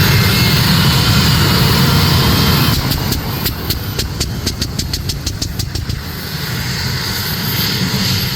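A pulling tractor's engine running hard and loud. About three seconds in it drops off, and a rapid, evenly spaced run of sharp clicks follows for about three seconds before a steadier engine sound carries on.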